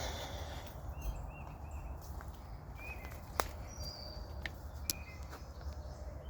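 Several short bird chirps over a low rustle of footsteps through trailside grass and weeds, with two sharp clicks near the middle.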